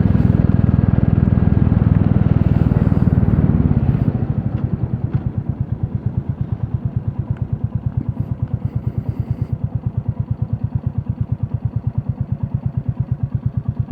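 Royal Enfield Classic 350's single-cylinder engine running under throttle, then about four seconds in dropping to low revs with a slow, even thump of roughly eight beats a second.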